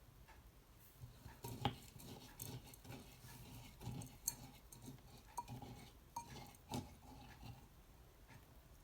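Cutlery clinking and tapping against dishes in a run of small irregular knocks, the sharpest about two seconds in and again near seven seconds.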